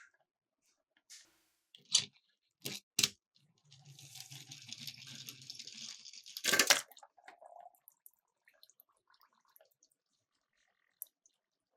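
Miniature toy cars on a plastic slope: a few sharp knocks, then about two seconds of rolling rasp with a low hum as a car runs down, ending in one loud impact. After that only faint ticks.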